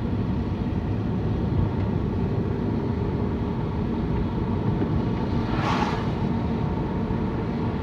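Steady low rumble of a car's engine and tyres heard from inside the cabin while driving, with a brief hiss about three quarters of the way through.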